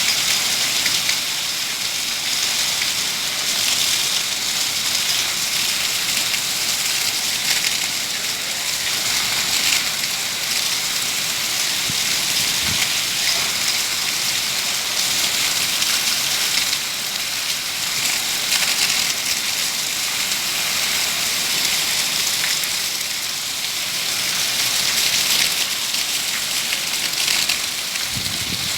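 Heavy rain pouring steadily, a dense even hiss of drops hitting the ground and surfaces.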